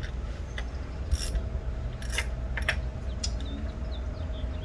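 Hand tools and metal engine parts clicking and scraping a few separate times during engine-bay work on a HEMI V8.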